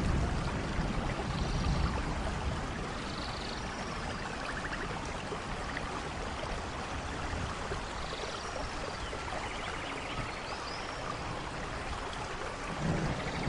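Steady rainfall, an even hiss. A low rumble of thunder dies away in the first couple of seconds and builds again near the end. A few faint, short, high chirps sound through the rain.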